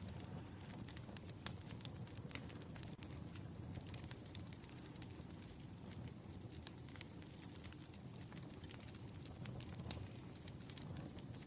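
Wood fire burning quietly: a steady low rumble with irregular sharp crackles and pops from the burning logs, a couple of them louder.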